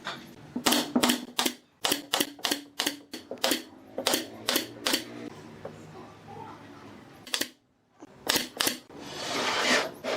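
A series of sharp clicks in quick runs of about three a second, a pause, a few more clicks, then a swelling rush of noise near the end.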